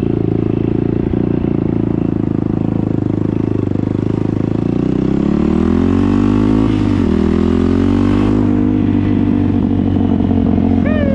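Motorbike engine running steadily; its revs rise smoothly about five seconds in and hold at a higher speed.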